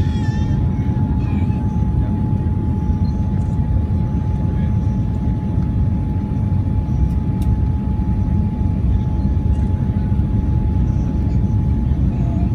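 Cabin noise inside a Boeing 787-9 airliner: a steady, loud, deep noise of the engines and airflow, with a thin steady whine held throughout.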